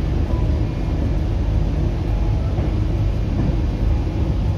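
Steady low rumble of a high-speed passenger train running along the line, heard from inside the carriage.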